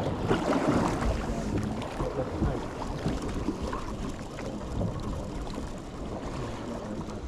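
Steady wind noise and sea sounds aboard a small fishing boat, rumbling and gusting unevenly, with a faint steady hum underneath.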